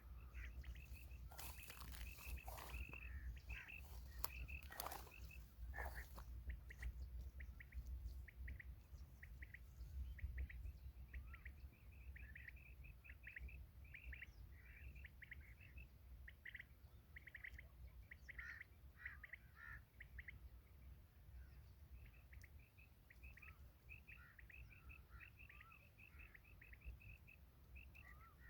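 Small birds chirping over and over in short high notes, with a steady low rumble underneath.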